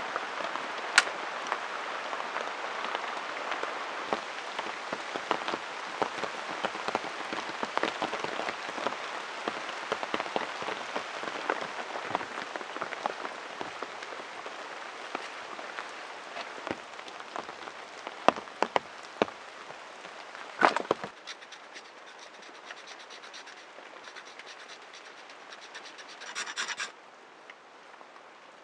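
Rain pattering steadily, with many small drips and ticks. About two-thirds of the way through it turns quieter after a sharp crack, and near the end there is a brief rapid scratching.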